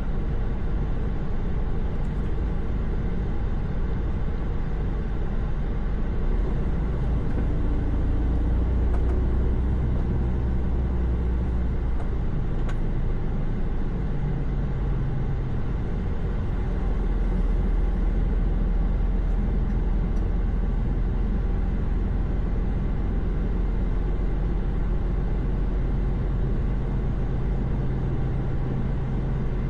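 Articulated truck driving at steady highway speed, heard from inside the cab: a constant low rumble of engine and road noise, with a few faint clicks.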